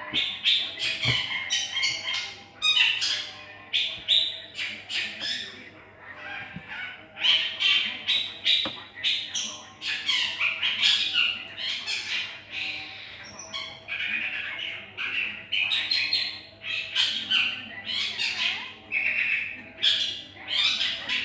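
Birds calling over and over in short, harsh calls that follow one another quickly and often overlap.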